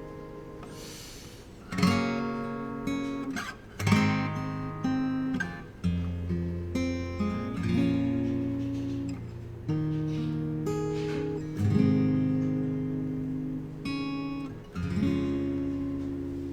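Acoustic guitar playing the instrumental outro of a song: a strummed chord about every two seconds, with lighter picked notes between them, and a last chord struck near the end and left ringing.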